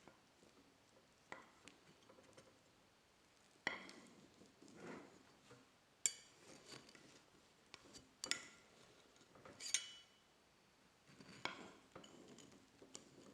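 Kitchenware being handled: several sharp clinks of dishes and utensils, some with a brief ring, between softer handling sounds.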